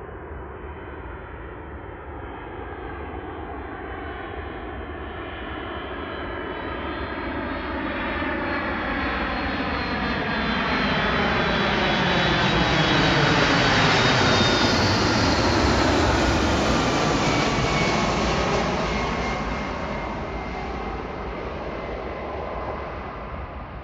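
Boeing 757-232 airliner with its Pratt & Whitney PW2000-series turbofan engines passing by on arrival. The jet noise swells steadily, is loudest about halfway through, then fades.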